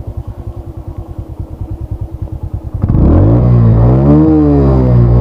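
Exhaust of a Suzuki Hayate EP's single-cylinder four-stroke engine: a steady, evenly pulsing idle, then about three seconds in the throttle is opened and it revs up loudly, rising, falling back and climbing again.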